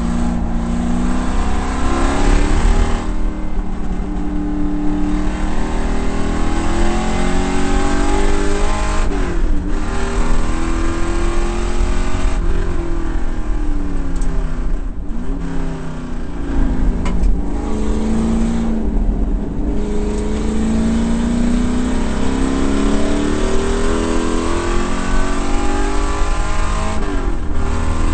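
1968 Ford Mustang race car's V8 heard from inside the cabin, driven hard on track: the engine pitch repeatedly climbs as it accelerates through the gears and falls away several times as it lifts off and shifts for corners.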